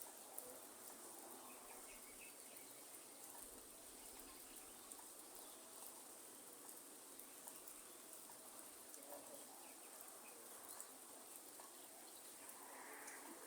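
Faint rainforest ambience: a steady high insect drone with light rain ticking and a few scattered, faint bird chirps.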